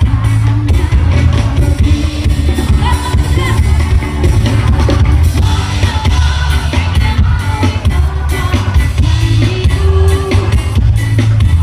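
Live band music with a singer, played loud through a PA sound system, with heavy bass and a steady drum beat.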